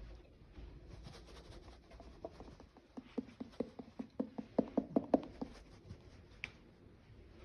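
A run of quick, light taps or clicks, about five a second, growing louder to a peak about five seconds in and then stopping, followed by one short higher squeak.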